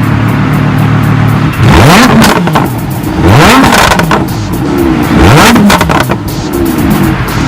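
High-performance car engine revved in three sharp blips, each rising in pitch and then falling, with a fainter fourth rev near the end, over background music with a steady beat.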